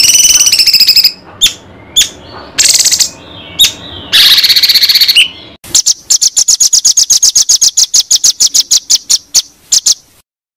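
Songbird song from a masteran, a bird-song training recording used to teach white-rumped shamas: loud whistled phrases and buzzy trills, then a fast run of sharp repeated chips, about eight a second, that cuts off suddenly near the end.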